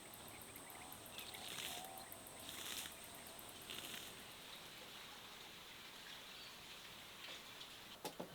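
Faint outdoor ambience with steady high-pitched insect chirring, three short rustles in the first four seconds and a couple of sharp clicks near the end.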